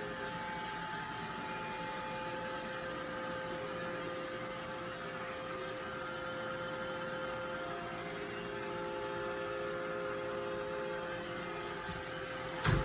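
Robot vacuum running steadily, a motor hum with a steady tone over its brush and suction noise. A sharp knock comes near the end.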